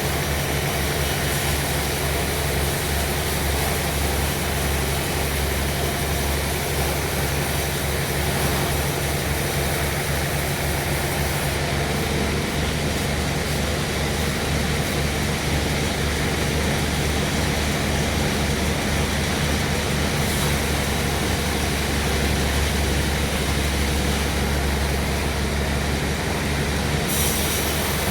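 Sawmill machinery running steadily: a constant low hum under an even, unbroken noise.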